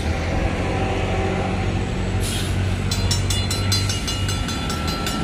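Approaching freight train's GE diesel locomotives giving a low, steady rumble. About three seconds in, the grade-crossing warning bell starts ringing in rapid, even strokes as the crossing signals activate.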